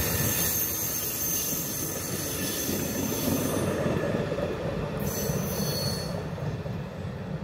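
MARC commuter train rolling along the track, a steady rumble with faint high wheel squeal on and off over it.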